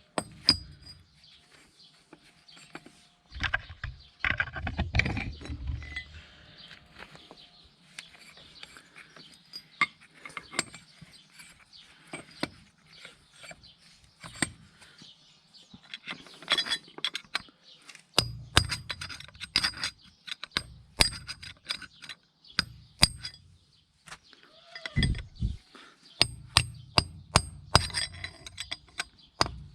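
Metal-on-metal clinks and hammer taps on steel parts, irregular at first, then a quick even run of taps, about three a second, in the last few seconds.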